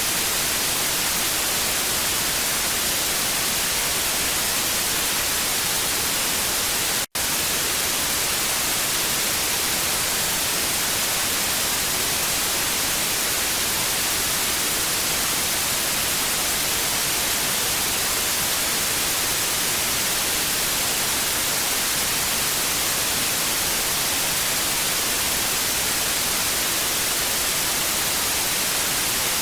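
TV static: a steady, even hiss, strongest in the high end, with a split-second dropout about seven seconds in.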